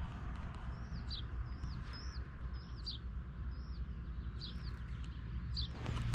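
A small bird calling repeatedly: short curved chirps, one or two a second, over a steady low rumble. Near the end, scuffs and knocks begin.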